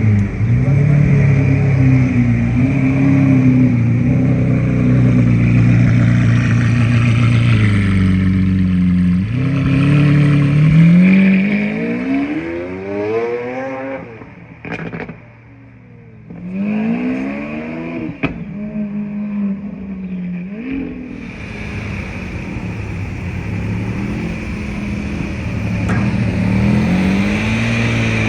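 A supercar's engine being driven. Its pitch holds fairly steady, then climbs in two strong pulls around the middle, separated by a short quiet lift-off with a few sharp clicks, and settles back to a steadier cruise.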